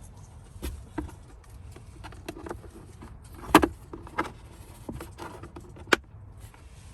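Plastic clicks and knocks as car interior trim attachments are snapped and pushed back into place by hand. The two sharpest snaps come about halfway through and near the end.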